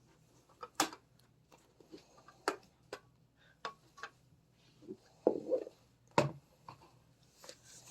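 Plastic clicks and knocks as the parts of a welding hood are handled and unclipped, with a short scraping rustle a little past halfway.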